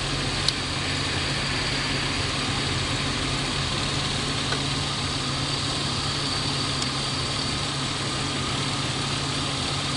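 BMW E36 320's M50/M52 straight-six idling steadily with a misfire, one cylinder having no spark. A single sharp click about half a second in.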